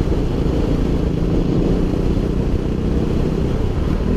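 Motorcycle engine running while riding, under a heavy, steady low rumble of wind.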